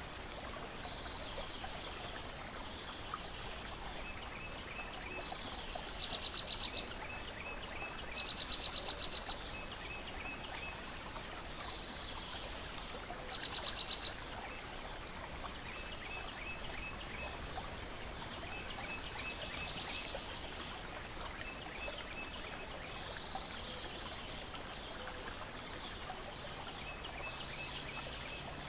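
Steady wash of small lake waves lapping against the shore, with songbirds calling: three loud, rapid trills about six, eight and thirteen seconds in, and short runs of faint high ticking notes throughout.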